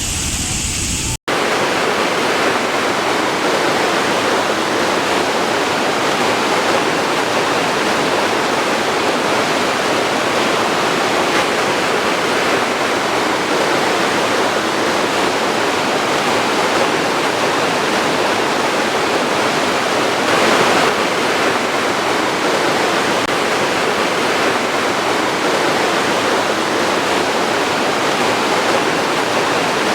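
Waterfall: a loud, steady rush of falling water. The sound cuts out for an instant about a second in, then the rush continues evenly.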